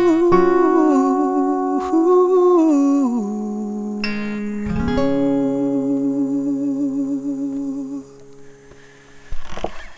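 Wordless humming of a folk melody over fingerpicked acoustic guitar, ending the song. The last chord rings and fades away about eight seconds in, followed by a short noise near the end.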